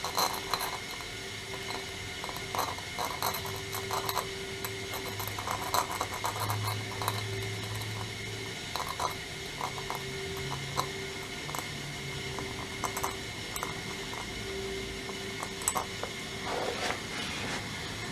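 Hand scraping and picking at hardened cement-like crud inside the box end of a combination wrench: irregular short metallic scratches and clinks, over a steady hum.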